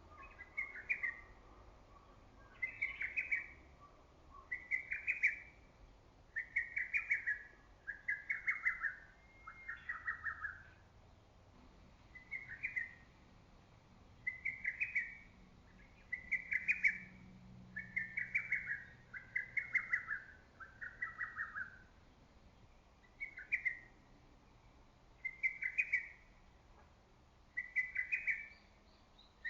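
Lesser cuckoo singing: short staccato phrases of rapid notes repeated about every two seconds, in three runs that each drop a little in pitch toward their end.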